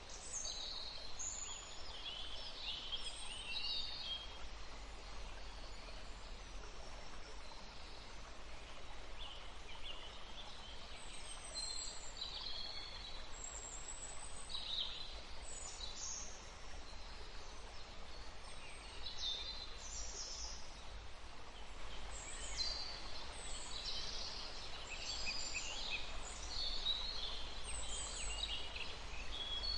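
Steady rush of a woodland stream, with songbirds chirping and calling over it in short bursts, again and again.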